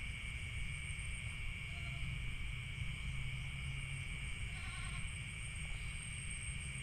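Night chorus of insects and frogs in a rice paddy: two steady high-pitched drones throughout, with a short call three times.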